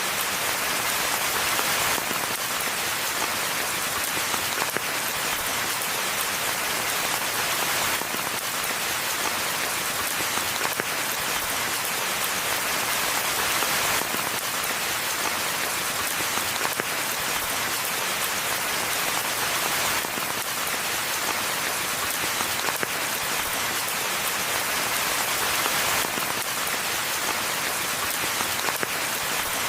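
Steady rainfall: a dense, even hiss of falling drops with faint individual drop ticks scattered through it.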